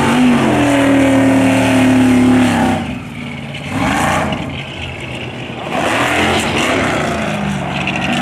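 Mud-racing buggy's engine running hard at high revs. It drops off about three seconds in, rises and falls in pitch for a few seconds, then revs up loud again.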